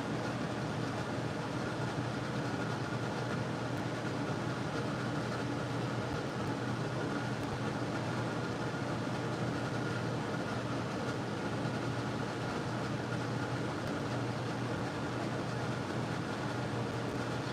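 A steady mechanical hum: an even hiss over a constant low drone, with a fainter higher tone that does not change.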